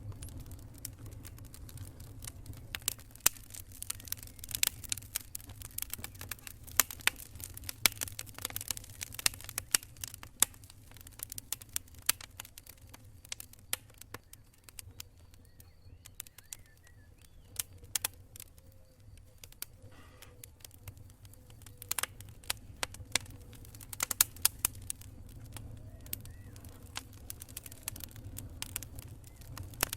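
Wood campfire crackling, with irregular sharp pops and snaps that come in thicker clusters at times, over a steady low rumble.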